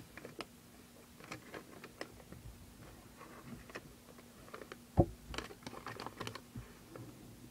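Soft scattered rustles and clicks of a small paper instruction booklet being handled and opened, with one sharper knock about five seconds in. A faint steady hum runs underneath.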